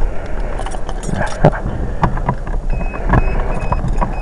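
1981 Toyota Celica's carbureted engine running just after a cold start, with an uneven low rumble and a few sharp clicks. From about two-thirds of the way in, a high steady beep sounds in short repeated pulses.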